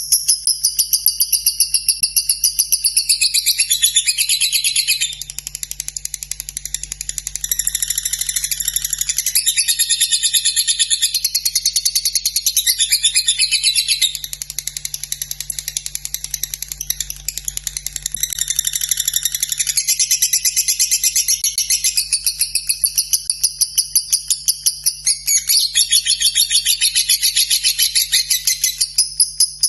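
Lovebird singing a long, unbroken 'ngekek' trill: rapid, high-pitched chattering that runs on without a pause, easing off briefly a few times.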